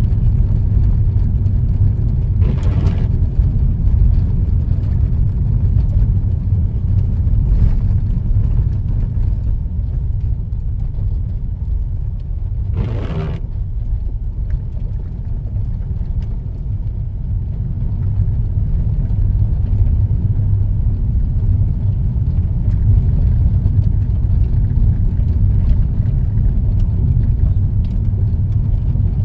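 Steady low rumble of a car driving, heard from inside the cabin: road and engine noise. Two short louder sounds break through, about three seconds in and about thirteen seconds in.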